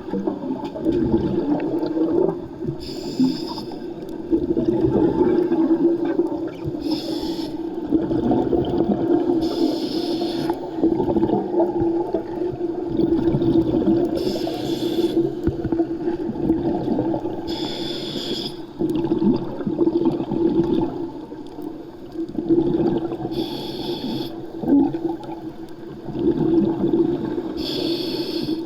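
Scuba diver breathing underwater through a regulator: a short hiss on each of seven inhales, a few seconds apart, with long bubbling rushes of exhaled air between them.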